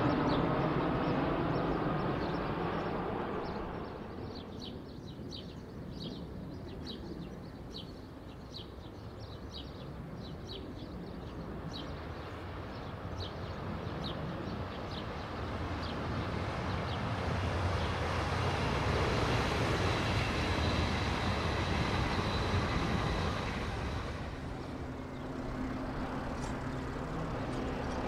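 An Airbus A340 airliner's jet noise fades away over the first few seconds. A double-deck electric passenger train then passes, its running noise swelling and falling away over about ten seconds, after a run of light regular ticks. Near the end the steady drone of a turboprop airliner on approach sets in.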